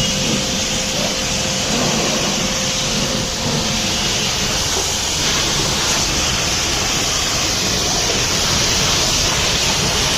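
Steady hiss of a high-pressure water jet spraying onto a truck during washing, which cuts off abruptly at the end.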